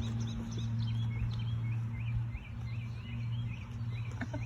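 Several young puppies squeaking and whimpering in rapid, high-pitched little cries, about three a second, over a steady low hum.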